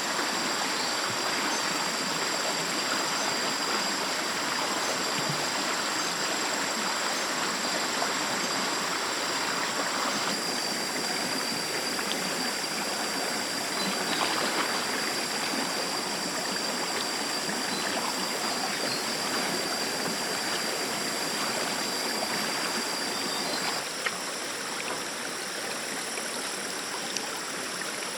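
Stream water flowing steadily, a continuous rush of running water.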